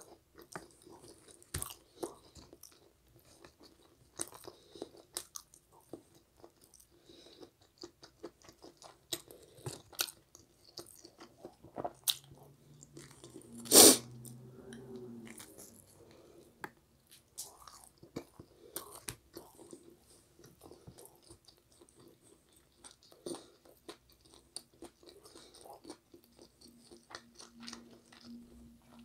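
Close-miked chewing and biting of pizza: wet mouth clicks and crunching of crust, many small sounds spread throughout. One much louder sharp crack about halfway through stands out from the rest.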